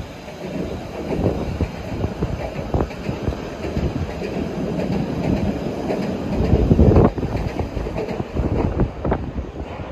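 Electric passenger train moving along the platform, its wheels knocking over rail joints and points in quick succession, loudest about seven seconds in.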